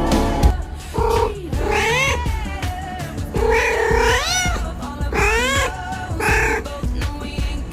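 A cat meowing over and over, about five drawn-out calls that rise and fall in pitch, the longest near the middle, over background music.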